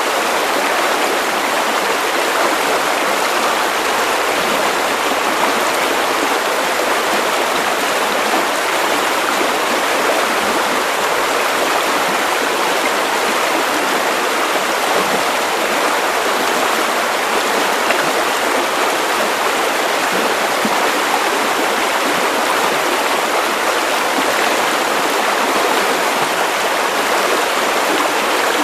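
Steady white noise: an even, unchanging hiss with little bass, played as a sleep sound for a baby.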